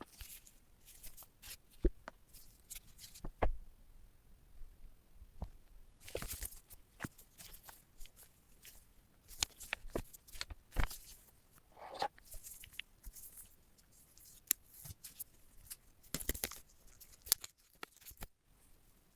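An AirPods Pro box and its wrapping being handled and opened by hand: irregular rustling and tearing of the packaging, with scattered sharp clicks and taps.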